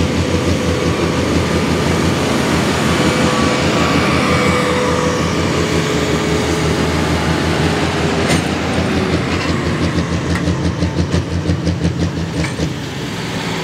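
Pro Stock pulling tractor's diesel engine running loud and steady. About two-thirds of the way through it slows into a distinct pulsing beat, then eases off near the end.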